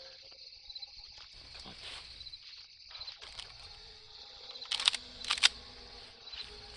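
Outdoor film ambience with a steady high insect-like hiss, broken by two sharp loud clicks about five seconds in.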